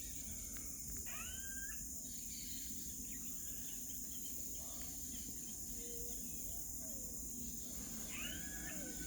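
Birds calling, with two clearer swooping, arched calls about a second in and again near the end and fainter calls between, over a steady high insect drone.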